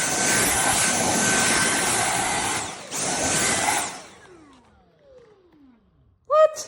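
Dyson V8 cordless stick vacuum running with a steady whine. It stops for a moment just before three seconds in and starts again, then is switched off about four seconds in, its motor winding down in a falling whine. Near the end comes a short, loud high tone.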